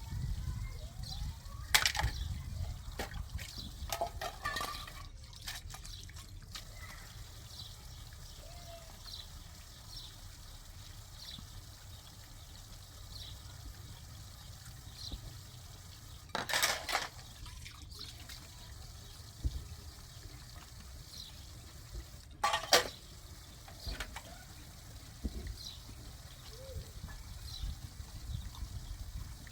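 Steady rain with water dripping: a low constant rush, light drips about once a second, and a few louder brief noises, the loudest about 22 seconds in.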